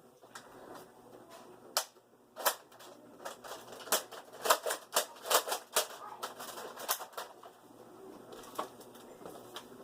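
An irregular string of sharp plastic clacks and snaps from Nerf blasters, about a dozen, bunched together in the middle with a few scattered ones before and after.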